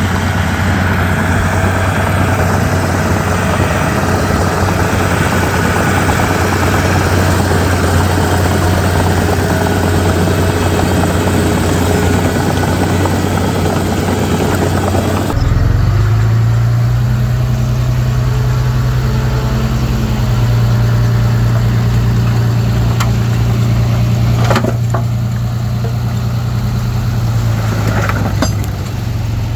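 Komatsu D31P bulldozer's diesel engine running while working, with track and machinery noise. About halfway the sound changes abruptly to a steadier, lower engine drone, and two sharp knocks come near the end.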